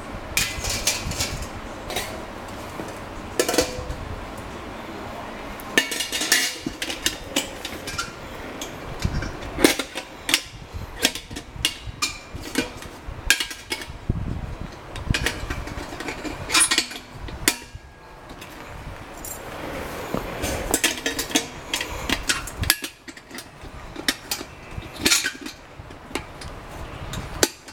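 Metal parts of a fire pit stand clanking and clicking as they are handled and fitted together, with repeated sharp knocks.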